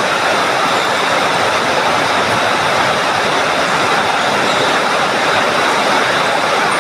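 Heavy rain falling as a loud, steady hiss, with no shuttle hits standing out above it.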